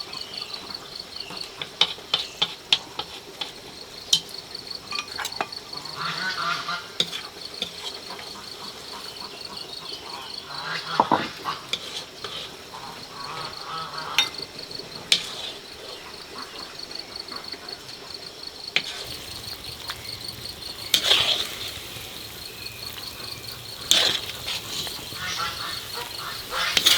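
Insects chirring steadily in a fast pulsing rhythm, with sharp clicks and knocks scattered throughout.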